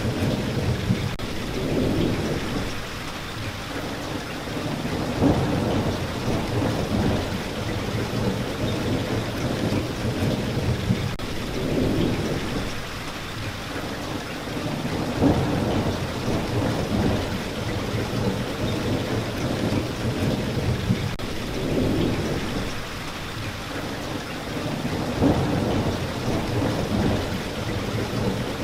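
Steady rain falling with low rumbles of thunder that swell and fade every few seconds.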